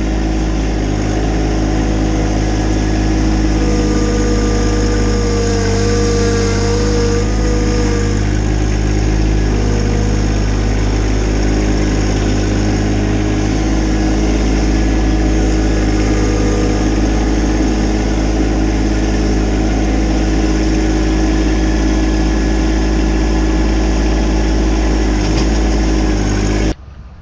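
A small work machine's engine runs steadily under load. From about four to eight seconds in a higher whine wavers over it. The sound cuts off suddenly near the end.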